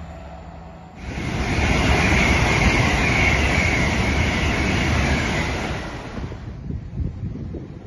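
LNER express train passing close through the station at speed without stopping: a sudden rush of wheel and air noise about a second in that lasts about five seconds, then dies away as the train draws off.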